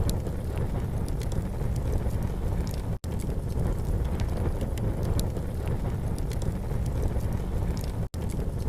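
Campfire burning, with frequent small crackles and pops over a steady low rumble. The sound cuts out for an instant twice, about three seconds in and about eight seconds in.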